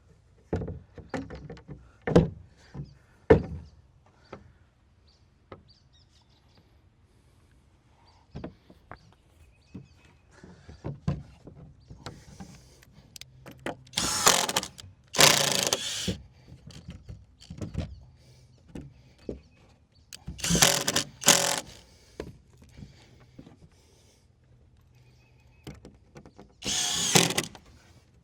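Power drill running in five short bursts of about a second each, in two pairs and then a single one near the end, as when driving screws into wood. Sharp knocks and clatter of boards and tools come early on and between the bursts.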